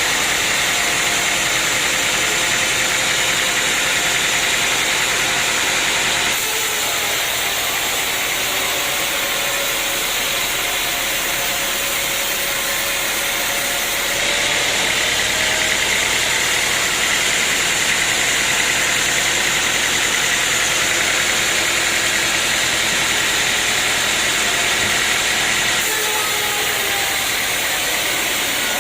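Sawmill machinery running steadily, a loud mechanical hum with a hiss. The sound shifts abruptly about six, fourteen and twenty-six seconds in.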